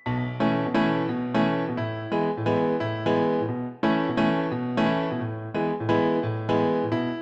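Background piano music: struck notes and chords with a bass line in a steady rhythm, each note dying away, with a short break just before the middle.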